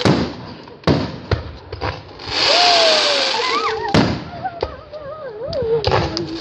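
Aerial fireworks shells bursting: about six sharp bangs, with a loud hissing crackle of sparks from about two and a half seconds in. A tone that slides down and wavers runs under the second half.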